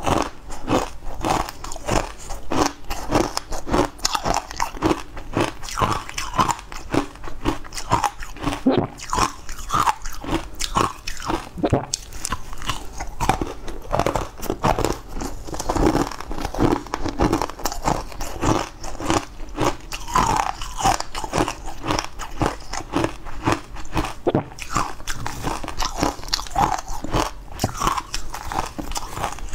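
Close-miked biting and crunchy chewing of a crumbly green powdered food, a run of short crunches a few times a second.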